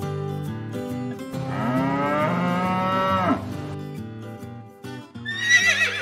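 A cow mooing once, a long call that rises and then falls, over background music. Near the end, a short high wavering call.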